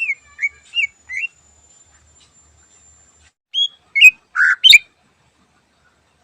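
Cucak ijo (green leafbird) singing. Four short whistled notes come in the first second or so, then a pause, then a quicker run of sharper, louder notes around four seconds in, the last note the loudest.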